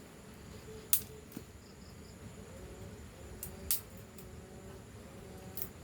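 A few sharp, short clicks or taps, the loudest about a second in and just before four seconds, over a quiet background with a faint steady high-pitched tone.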